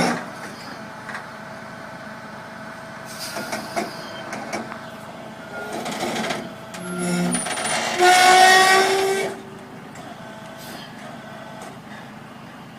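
Vehicle noise with a loud horn blast of about a second, sounding several pitches at once, about eight seconds in.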